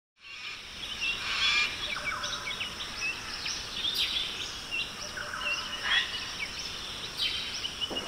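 Small birds chirping and calling over and over in short rising and falling notes, over a steady high-pitched background, with a fast repeated trill in the last few seconds.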